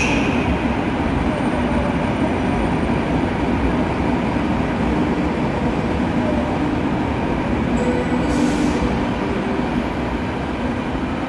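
Passenger coaches of a locomotive-hauled PKP Intercity train rolling past along the platform: a steady rumble of wheels on the rails, with a brief hiss about eight and a half seconds in.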